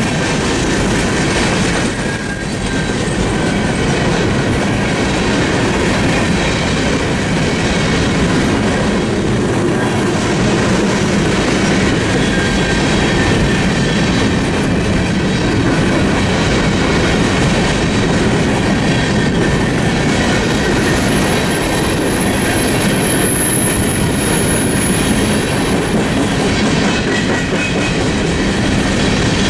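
Freight train cars rolling past at close range, a steady clatter of wheels over the rails. A thin, high wheel squeal sounds for several seconds about two-thirds of the way through.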